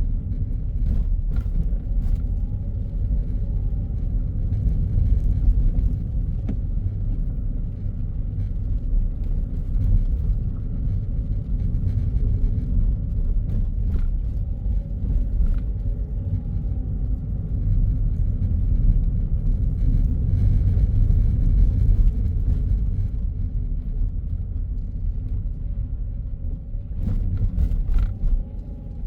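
A car driving along a road: a steady low rumble of engine and tyre noise, with a few faint ticks.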